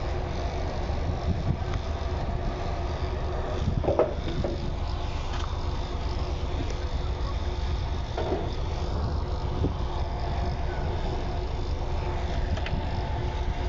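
Steady low rumble, with a few faint knocks about four and eight seconds in.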